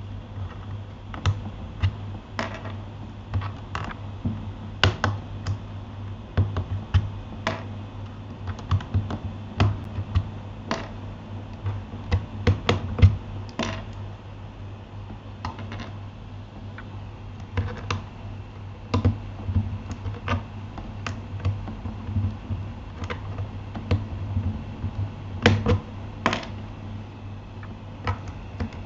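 Keychron K8 mechanical keyboard being typed on: irregular keystroke clicks and clacks, with a few brief lulls, over a steady low hum.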